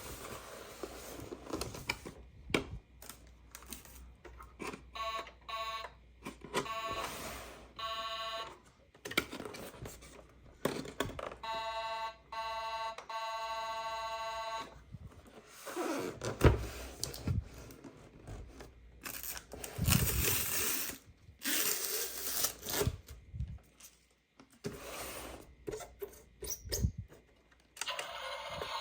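Packaging and plastic toy parts being handled: rustling, tearing, clicks and knocks. Two stretches of electronic beeping from a battery-powered toy: a quick pulsing beep about five seconds in and a longer steady tone about twelve seconds in.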